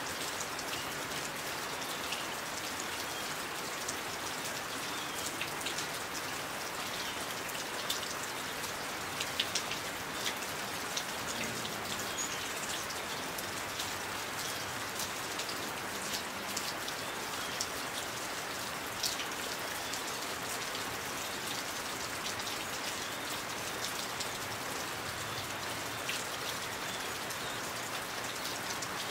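Steady rain falling, with scattered sharper drop ticks over the even hiss and a small cluster of them about nine seconds in.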